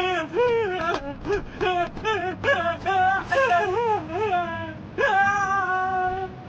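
A high voice wailing in a sing-song run of short notes that slide up and down, then holding one long steady note about five seconds in.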